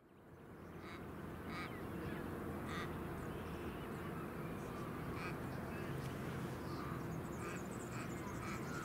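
A steady low rumble fades in, and over it a bird gives short, repeated calls about once a second.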